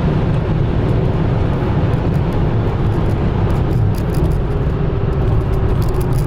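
Steady engine and road noise of a car being driven, heard from inside the cabin, with a low rumble and a faint steady hum.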